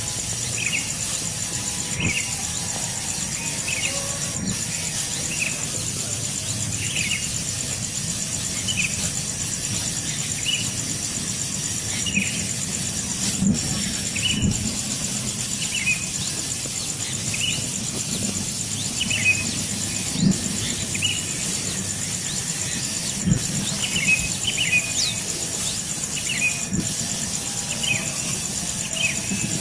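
A bird repeating short, high, squeaky chirps about once every second or so, each note dropping slightly in pitch, over a steady high hiss.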